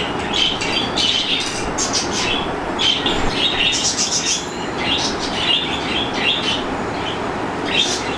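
Small birds chirping repeatedly in short clusters over a steady rushing background noise.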